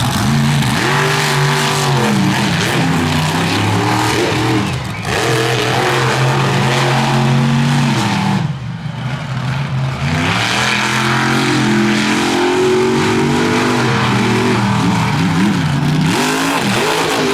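Big-block monster truck engines revving hard, their pitch climbing and falling again and again as the throttle opens and lifts, with two short drops in level, about five and nine seconds in.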